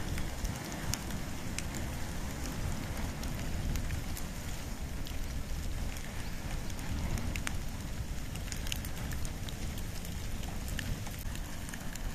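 Wood and bamboo burning in an open fire: a steady low rumble with frequent sharp crackles and pops.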